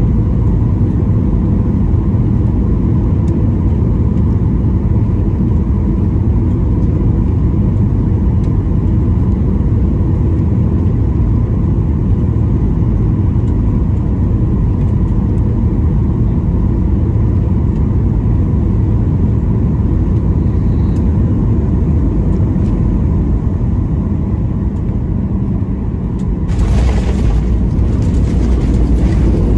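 Boeing 737-800 cabin noise during the descent: a steady low rumble of the engines and rushing air. About 26 seconds in, a sudden louder rushing hiss comes in and carries on.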